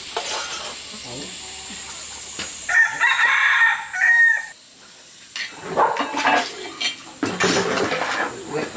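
A rooster crows once, a held call of a little under two seconds that starts about three seconds in.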